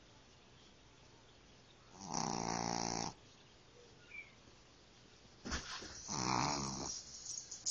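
Puppy snoring: two long, pitched snores about four seconds apart, each lasting about a second. A short sharp click comes just before the second snore.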